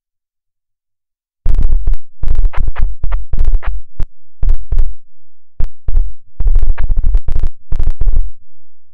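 Loud, heavily distorted, unintelligible air traffic control radio transmission. It cuts in about a second and a half in after dead silence and comes in choppy, speech-like bursts.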